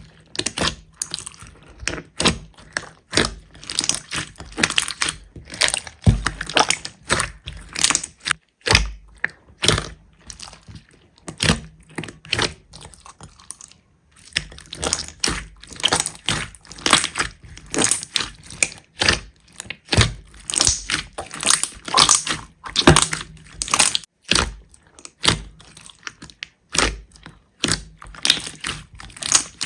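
Slime being squeezed and poked by hand, giving many irregular crackling clicks and pops, several a second, with a short break about halfway through.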